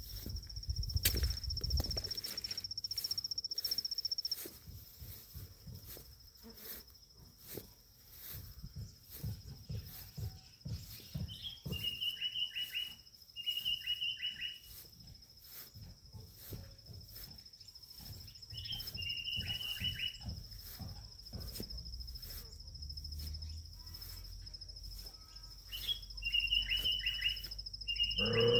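Garden ambience: an insect keeps up a steady high-pitched trill while a bird calls three times in short bursts of rapid chirps. Scattered low rustles and knocks run underneath.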